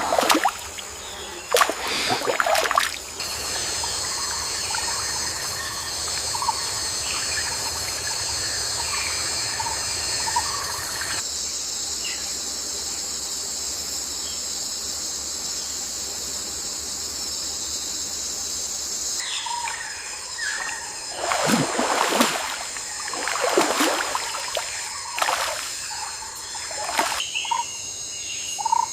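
Natural outdoor ambience: a steady high-pitched hiss, with water trickling and splashing and short bird calls. The background changes abruptly twice, a little over a third of the way in and again about two-thirds through, and several splashing strokes come near the end.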